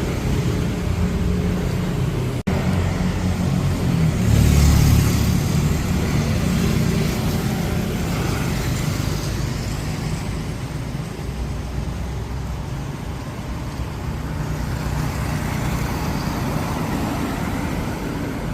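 Road vehicle noise: an engine running steadily among traffic, with a louder swell of road and passing-vehicle noise about four to five seconds in.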